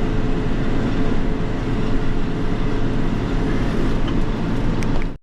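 John Deere 7210 tractor running steadily while pulling a Krone hay baler in the field, a continuous engine drone with a constant hum.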